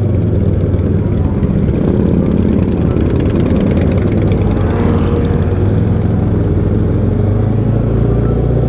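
Motorcycle engine running steadily at low speed on a group ride, the rider's own Yamaha R3 closest, with other bikes around it.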